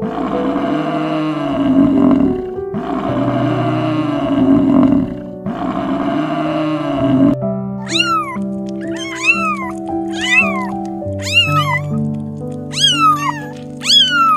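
A water buffalo gives three long, low moos of about two seconds each. Then kittens give a quick run of high meows, each rising and falling in pitch. Soft piano music plays underneath throughout.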